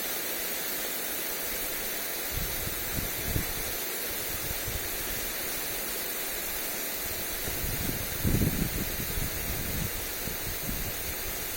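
Lawn sprinkler spray hissing steadily onto grass. Gusts of wind rumble on the microphone a couple of seconds in and again near the end.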